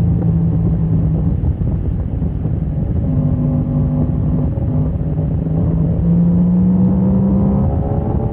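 Motorcycle engine running hard on a race track, heard through wind rumble on the microphone. Its note steps up and down several times as the throttle and gears change.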